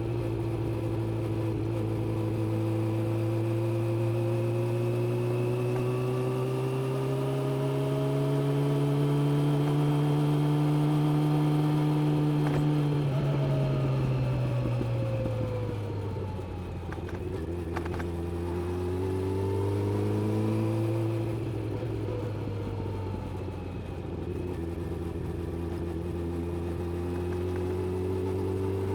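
Suzuki GSX600F motorcycle's inline-four engine under way, its pitch rising slowly for about twelve seconds as it pulls, then falling as the throttle eases off. It picks up briefly again around twenty seconds in, drops back, and then runs steady for the rest.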